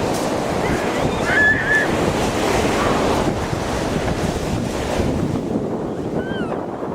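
Ocean surf washing on the beach, with wind buffeting the microphone. A brief wavering high-pitched call comes about a second in, and another short one near the end.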